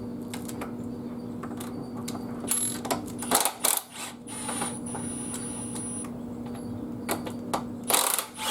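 Clicks and metal clatter of a 15/16-inch socket wrench breaking loose and turning the large top bolts of a motorcycle's front fork tubes, louder about two and a half seconds in and again near the end, over a steady low hum.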